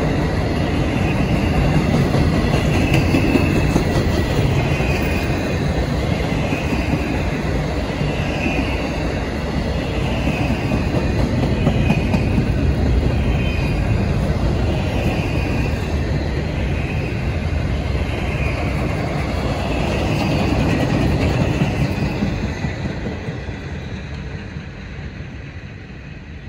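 Double-stack intermodal freight train rolling past: a steady rumble of steel wheels on rail, with a high ring that swells and fades every second or two. The sound dies away over the last few seconds as the end of the train passes.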